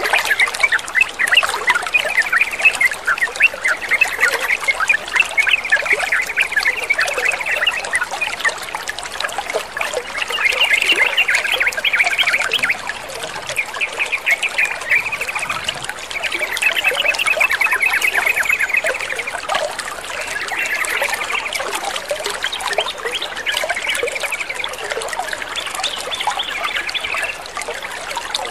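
Yellow-vented bulbuls chattering in quick runs of notes over a steady trickle of running water.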